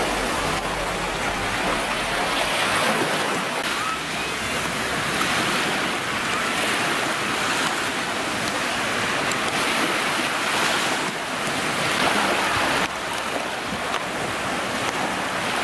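Steady rush of water and splashing spray, with wind buffeting the microphone.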